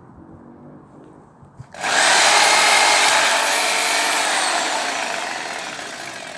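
A power saw cutting into a tree: a loud, harsh sawing noise starts suddenly about two seconds in, then slowly fades away.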